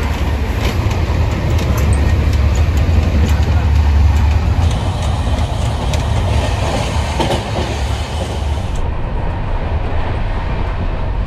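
Indian Railways second-sitting passenger coach running at speed, heard from inside: a steady low rumble with occasional clicks and rattles from the wheels and fittings.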